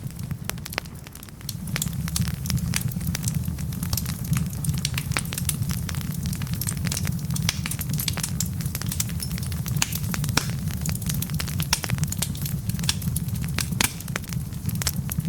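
Wood fire burning in a fireplace: many sharp crackles and pops of the logs over a steady low rumble of the flames. The rumble dips briefly about a second in.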